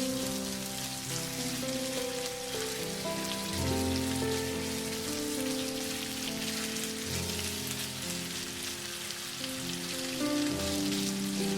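Slow background music of held notes changing every second or so, over a steady patter of rain.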